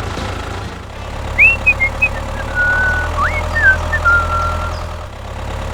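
A steady low engine hum, like idling, runs throughout. From about a second and a half in, a string of short high chirping notes slides up and down over it for about three seconds.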